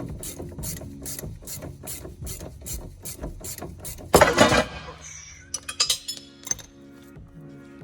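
Hand ratchet wrench clicking steadily, about four clicks a second, as a suspension bolt is turned. About four seconds in comes a loud clatter, then a few scattered clicks.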